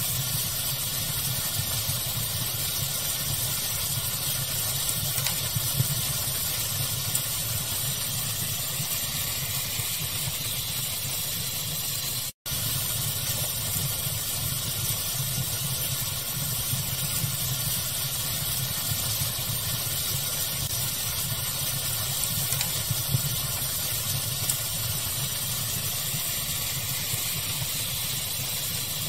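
Steady hiss of a fire-sound recording presented as pink noise, with a few faint crackling pops. The sound cuts out for an instant about twelve seconds in.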